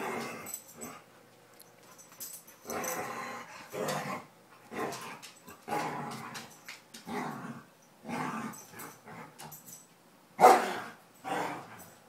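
Two dogs play-fighting, growling and barking in short bursts, with the loudest outburst about ten seconds in.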